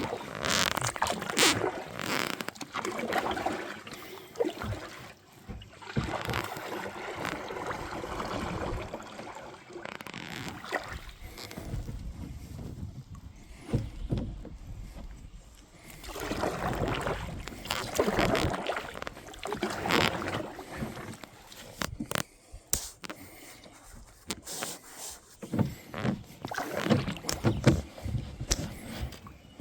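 Kayak paddling: the paddle blades splash and slosh through the water in uneven swells a few seconds apart, with a few sharp knocks about three-quarters of the way through.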